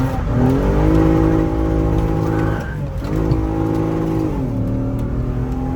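Toyota Mark X's V6 engine pulling the car through a turn, heard from inside the car: the pitch rises, dips briefly about three seconds in, climbs again, then drops back and holds steady. The owner says this engine is misfiring and sucking in air since he refitted the intake manifold.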